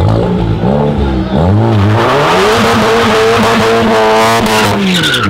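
Car engine revving hard: several quick rises and falls in pitch, then a long climb to high revs that is held for about three seconds before dropping away near the end.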